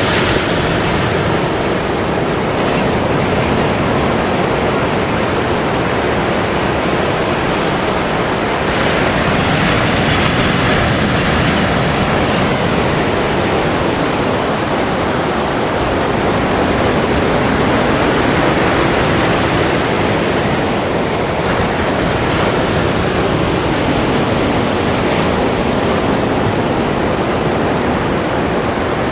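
Ocean surf: a continuous wash of breaking waves, swelling slightly louder twice.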